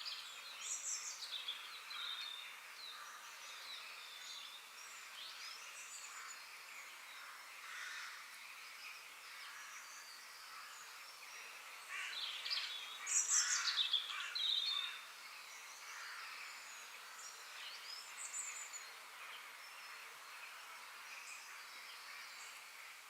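Songbirds singing in forest ambience: many short chirps and quick falling whistles over a faint steady hiss, with a louder bout of song about twelve to fifteen seconds in.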